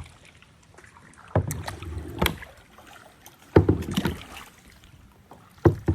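Kayak paddle strokes in river water: about five uneven splashing strokes, the loudest about halfway through.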